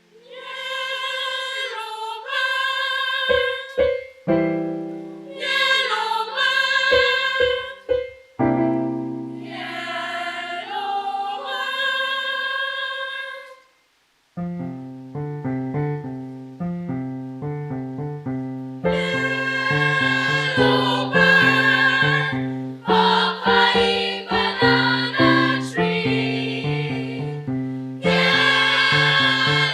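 Female choir singing in parts with piano accompaniment. About halfway through the voices and piano stop briefly, the piano plays a rhythmic chord pattern alone for a few seconds, and then the choir comes back in.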